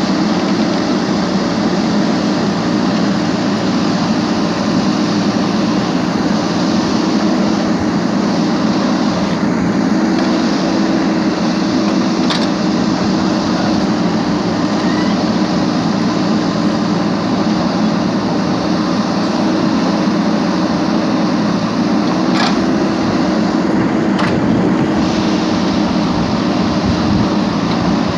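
Steady, loud mechanical hum with an even drone, and a few faint clicks about 12 and 22 seconds in.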